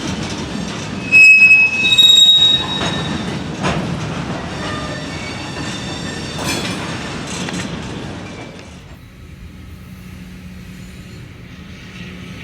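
Freight train cars rolling slowly on the rails with steel wheel flanges squealing, two loud high squeals in the first couple of seconds and fainter ones after; about nine seconds in the rolling dies down to a quieter steady low hum.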